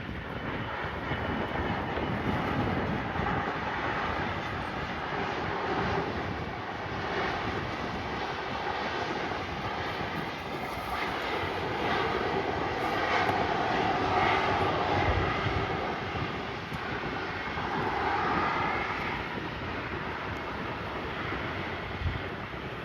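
Airliner engines running as a plane moves past, the engine whine swelling loudest a little after halfway, with gusty wind buffeting the microphone.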